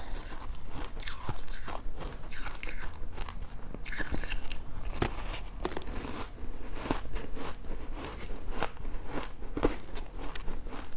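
Crunchy bites into freezer frost: sharp, irregular crunches about once a second, with some chewing between them.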